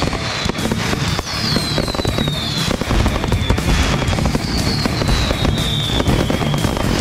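A 500 gram, 30-shot consumer firework cake firing continuously: dense pops and crackling, with high whistles that fall slowly in pitch, one after another.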